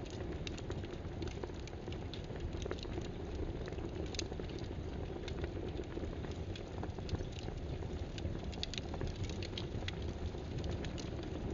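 Computer keyboard typing: irregular light key clicks, several a second, over a steady low background noise.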